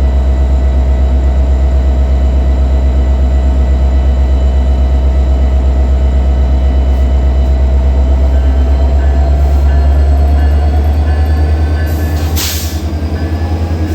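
A train running past close by: a loud, steady rumble with a fast, even pulsing and a few steady ringing tones above it. A short hiss comes about twelve seconds in, and the sound eases slightly near the end.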